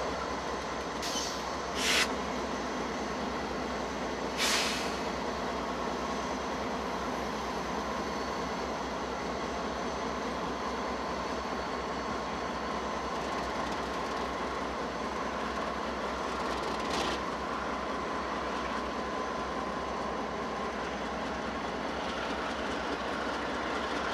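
Norfolk Southern freight train moving through a rail yard: a steady rolling rumble, with a few short sharp noises in the first five seconds and one more later on.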